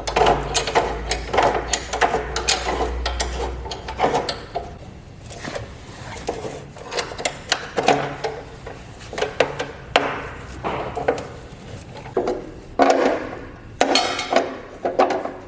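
Workshop clatter: irregular knocks and taps of hand tools and parts being handled, with a low hum for the first few seconds.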